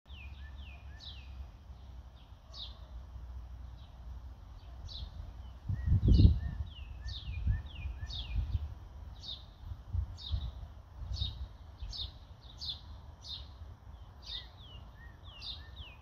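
Birds chirping: a steady run of short, high-pitched, downward-sliding notes, about two a second. A low rumble about six seconds in is the loudest sound, followed by a few fainter low thumps.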